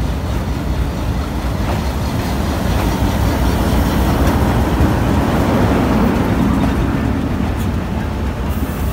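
Diesel-electric locomotive of an arriving passenger train rumbling as it rolls past, loudest about five seconds in, then its passenger coaches rolling by on the rails.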